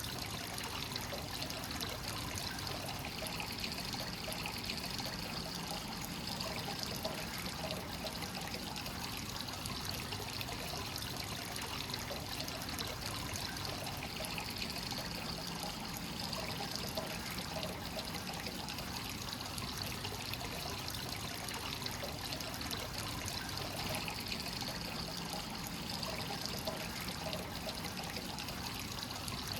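Free-flowing hot spring source water pouring steadily into a bath, a constant trickle and splash with gentle swells every ten seconds or so.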